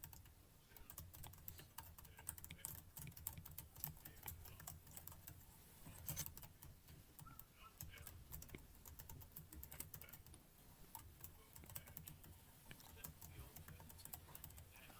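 Computer keyboard keys tapped irregularly, faint scattered clicks, over a steady low hum.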